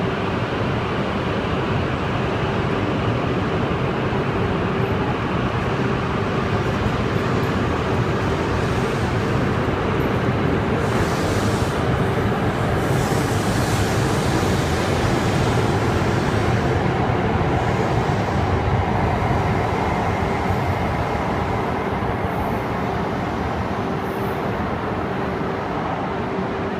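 E5 series Shinkansen train pulling out of the station and rolling past, a steady rushing rumble of the cars going by that eases slightly near the end as the last car leaves, with a steady hum under it.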